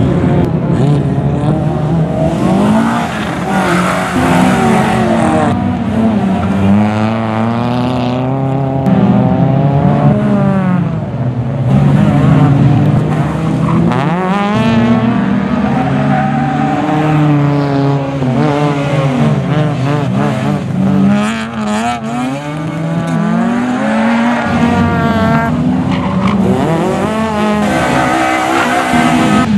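Rally car engines driven hard on a circuit, revving up through the gears, then dropping as the throttle is lifted and the car shifts, over and over.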